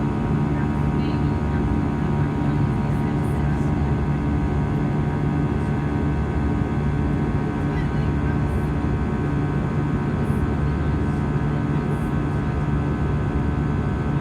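Steady cabin drone inside an Airbus A320: engine and airflow noise with several constant hum tones, holding an even level throughout.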